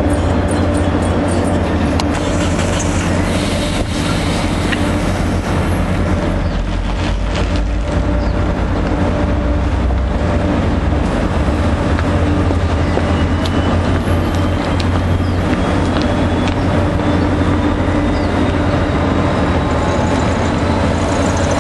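NJ Transit diesel-hauled push-pull commuter train at the platform: a steady, loud low drone of the running locomotive, with the train pulling away near the end.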